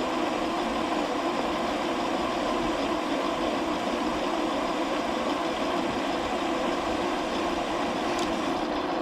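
Metal lathe running steadily with an even hum while turning down the diameter of round bar stock.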